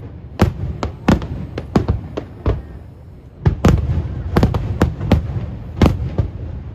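Aerial fireworks shells bursting in quick, irregular succession, a string of sharp bangs with deep booms under them. They thin out briefly about halfway, then come thick and fast again.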